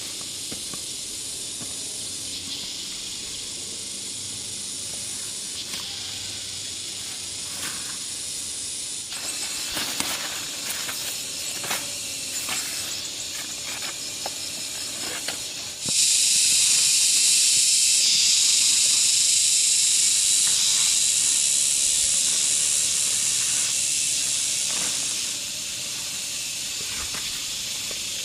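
Insects buzzing in a steady high drone that suddenly grows much louder about halfway through, holds for about nine seconds, then drops back. Scattered clicks and crackles come before the loud stretch.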